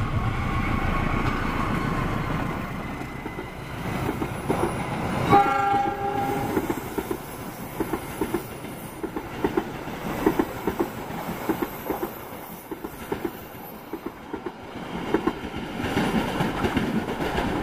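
Diesel-hauled passenger train passing close by: a low engine rumble for the first few seconds, a short horn blast about five seconds in, then the carriages' wheels clicking over the rail joints in a repeating rhythm as the train goes by.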